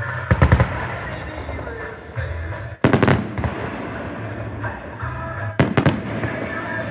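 Fireworks going off in three clusters of sharp bangs: a quick rattle of cracks near the start, one big bang about three seconds in, and two close bangs near the end. Music with a steady bass plays underneath.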